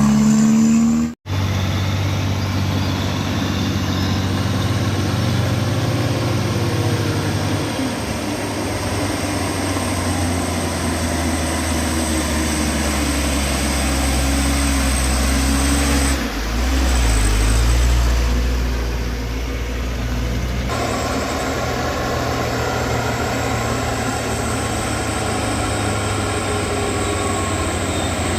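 Heavy vehicle engines running steadily at low revs, with the engine note shifting about 16 seconds in and again around 21 seconds.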